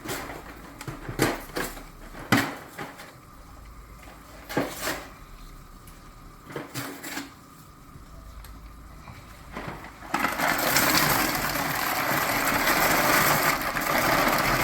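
Scattered knocks and clatter of pots and utensils being handled at the stove, then about ten seconds in a loud steady hiss that lasts about five seconds.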